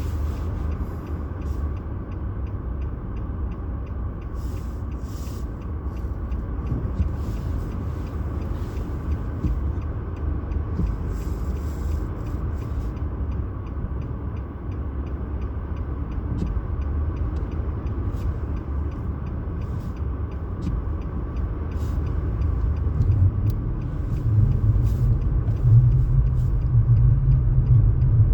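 Steady low rumble of a vehicle on the move, growing louder in the last few seconds.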